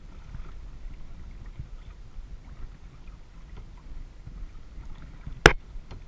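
Kayak on open water: a low rumble with faint small splashes and drips, then one sharp knock about five and a half seconds in, likely a paddle or the camera mount striking the kayak.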